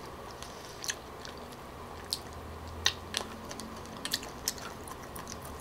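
A person chewing a mouthful of tteokbokki, with faint, scattered wet clicks and smacks.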